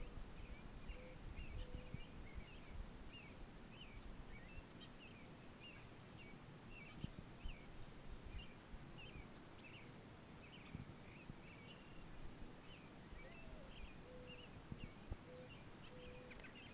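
Faint birdsong: a small bird chirping short high notes, two or three a second, and twice a lower cooing call of one rising note followed by a few even notes. A low background rumble runs underneath.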